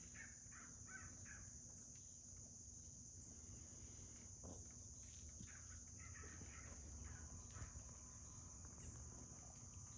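A faint, steady, high-pitched insect chorus drones on without a break, with soft chirps breaking in now and then.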